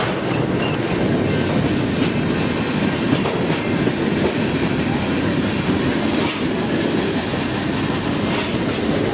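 Canadian Pacific freight train of covered grain hopper cars rolling past close by: a loud, steady rumble of steel wheels on the rails with clacks over the joints.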